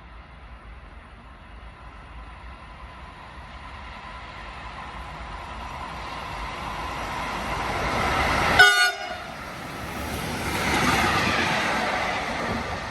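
A train approaching, its noise slowly building, sounds one short horn toot about two-thirds of the way in; the horn is the loudest sound. A rushing pass-by follows and starts to fade near the end.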